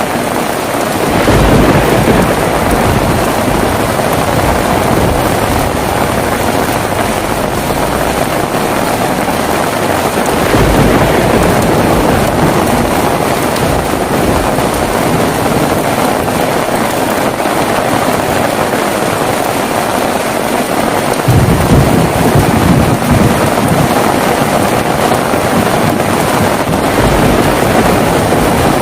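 Heavy rain falling steadily, with thunder rumbling three times: about a second in, around ten seconds in, and with a sharper onset about two-thirds of the way through.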